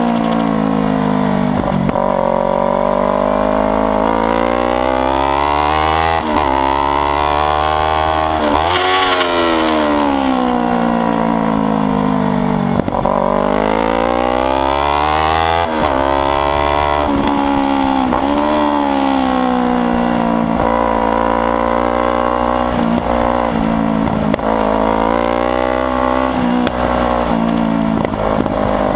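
Kawasaki Ninja 300's parallel-twin engine at full throttle on a track, its loud exhaust climbing in pitch through the gears with brief breaks at each shift, then falling away under braking before climbing again, several times over.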